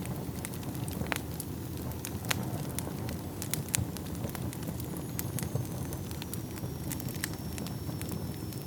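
Wood fire burning in a fireplace: a low steady rumble of flames with irregular sharp crackles and pops of burning logs. About halfway through, a faint high whistle comes in and slowly falls in pitch.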